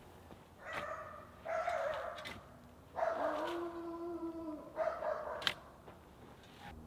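A dog barking and howling in four drawn-out calls.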